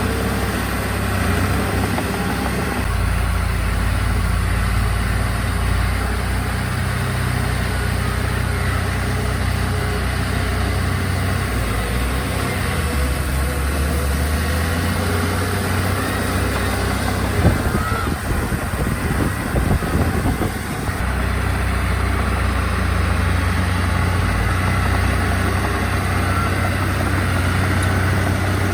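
Diesel engine of heavy earthmoving machinery running steadily with a low drone. A cluster of knocks and clanks comes about two-thirds of the way through, the loudest a single sharp clank.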